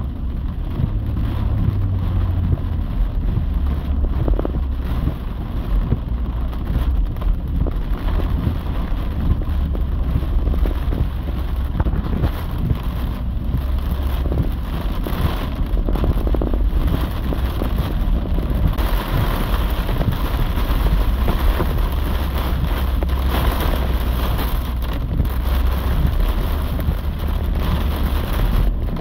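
Heavy rain on a moving car, heard from inside the cabin over the steady low rumble of the car driving. The rain hiss grows stronger about two-thirds of the way through.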